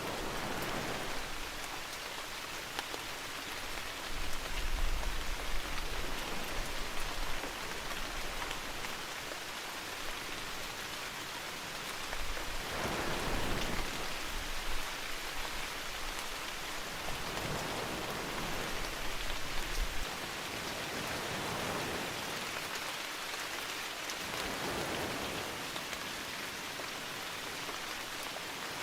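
Steady heavy rain falling, with swells of sea waves rising and falling every few seconds and a low rumble at times.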